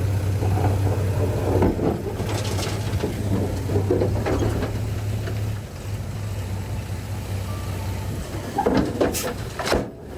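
Heavy machinery's diesel engine running steadily, with metallic clanks and knocks over it. The engine sound weakens about two-thirds of the way through, and several sharp knocks come near the end.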